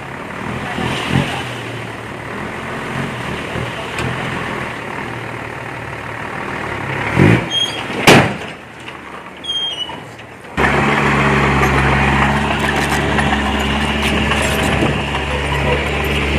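Heavy earthmoving machinery's diesel engine running steadily, with a couple of loud sharp noises about seven to eight seconds in. About ten and a half seconds in, the sound switches abruptly to a louder, steadier, deeper engine sound.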